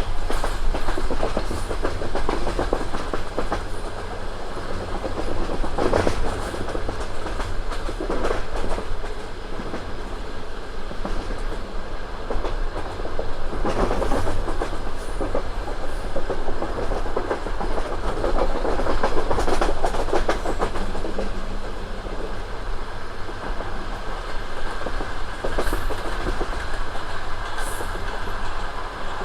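Passenger train running on the line: wheels clattering over rail joints in short clusters every few seconds over a steady low rumble, heard from aboard the train.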